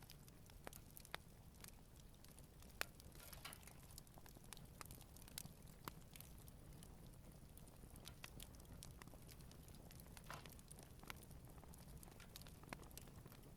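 Wood campfire crackling gently: irregular sharp pops and snaps from the burning logs, one louder pop about three seconds in, over a low steady rumble.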